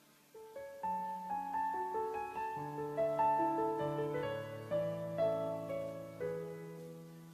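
Solo piano music: a slow, gentle melody of single notes over held bass notes, starting about half a second in.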